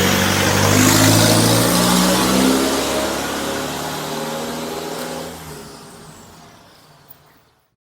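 Motor vehicle driving past close by: engine and tyre noise loudest about a second in, then fading steadily as it moves away. The sound cuts off shortly before the end.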